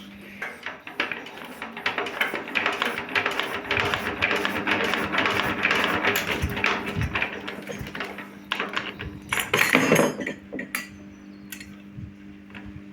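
20 hp horizontal single-cylinder diesel engine turned over with its starting crank handle: a rapid metallic clatter as it spins, a louder clank near ten seconds, then it dies away without firing, because no fuel is reaching the injector with the fuel tap still off.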